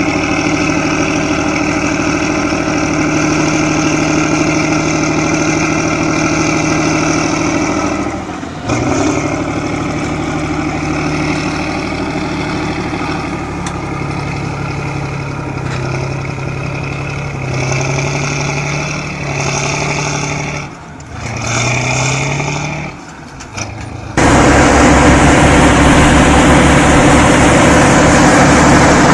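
Heavy vehicle engines running under load, their pitch rising and falling as they rev, with abrupt changes between clips; a little over three-quarters of the way through, a louder, rougher engine noise takes over.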